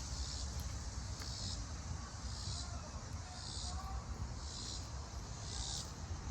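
Crickets chirping in pulsed bursts, about one a second, over a steady low rumble.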